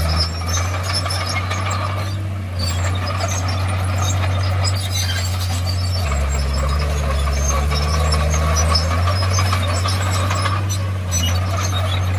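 Crawler bulldozer's diesel engine running steadily, its note shifting twice, with scattered clanks and squeaks from the machine.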